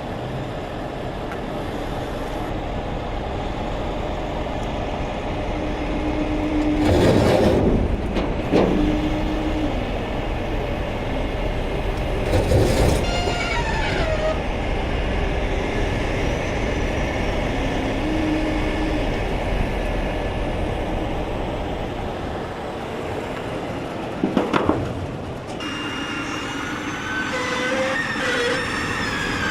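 Heavy truck diesel engine running steadily, with a few short, louder bursts of noise at intervals and some brief steady tones.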